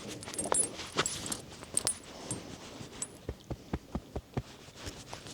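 Light metallic jingling and clinks, then a quick run of soft low thumps about three seconds in.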